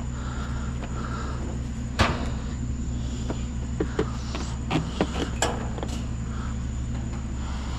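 Heavy scrap metal knocking and clanking as it is manhandled and lifted, a sharp knock about two seconds in and a run of knocks a couple of seconds later, over a steady low engine hum.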